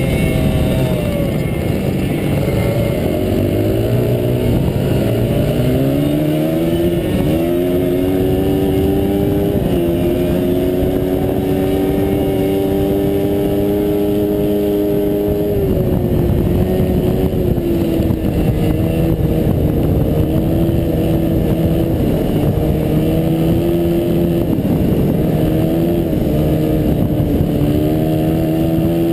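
Onboard sound of a dirt-track racing motorcycle's engine at race pace. The revs fall at first, then climb in steps through several gear changes and hold high. About halfway through they drop sharply as the rider backs off, then rise and hold again, over a steady rush of wind and track noise.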